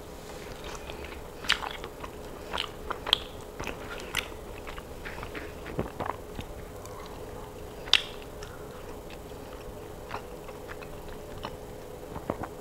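Close-miked mouth sounds of chewing and biting baked chicken: scattered wet clicks and smacks at an irregular pace, the sharpest about a second and a half in and again near eight seconds, over a faint steady hum.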